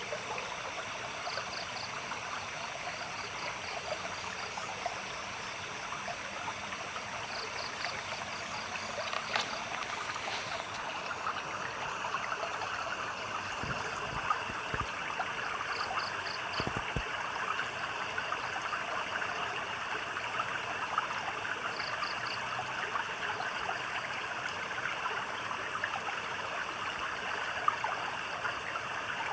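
A stream trickling and gurgling steadily. A small animal's high chirp repeats in short bursts every few seconds over the water.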